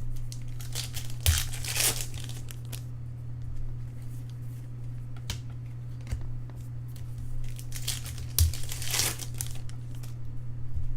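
Baseball card pack wrappers being torn open and crumpled, in two rustling bursts about a second in and again near the end, with small clicks in between over a steady low hum.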